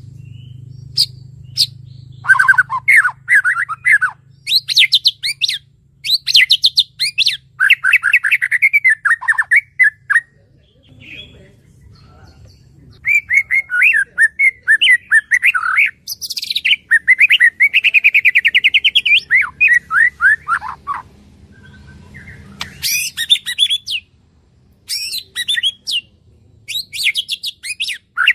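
Song of kerak basi (reed warbler) and cililin birds. It comes as loud, fast chattering phrases of rapidly repeated notes, each phrase lasting a second or several, with short pauses between, over a faint low hum.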